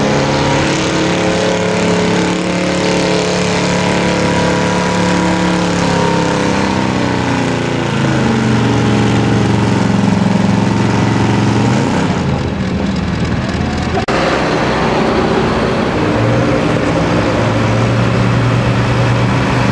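Pulling truck's engine running hard at high revs under load, its pitch rising and falling, with an abrupt change about fourteen seconds in.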